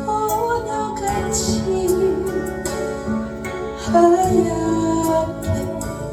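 A woman singing a slow Korean ballad live, accompanied by strummed acoustic guitar.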